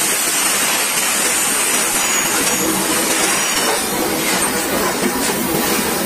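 Railway wagons rolling directly overhead, heard from between the rails: steel wheels running on the rails and the undercarriages rattling, as one steady loud noise.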